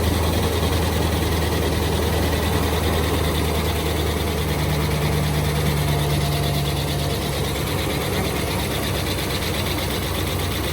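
Dodge Ram Hemi V8 idling steadily, cold and warming up just after its first start following the repair of a failed MDS lifter.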